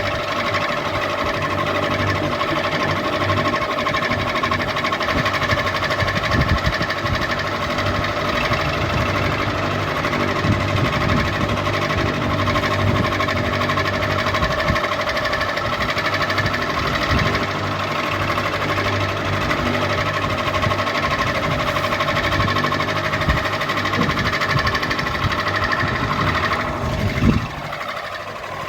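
Ceiling fan running steadily: a constant motor hum with a rough, irregular knocking rumble underneath. Near the end the sound briefly dips and sweeps down in pitch before carrying on.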